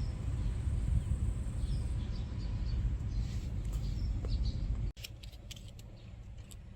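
Small birds chirping outdoors over a steady low rumble; about five seconds in the rumble drops away suddenly and a few short, sharp high chirps or ticks follow.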